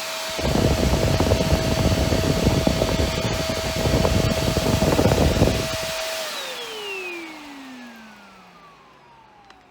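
Iwoly V600 corded stick vacuum running with a steady high whine, with rough rumbling suction noise as its nozzle works over fabric for about five seconds. About six seconds in the motor is switched off and spins down, its whine falling in pitch and fading away.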